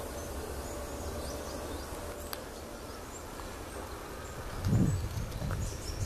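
Faint, scattered high chirps of small birds over a steady outdoor background. Low thumps of footsteps begin about three-quarters of the way through.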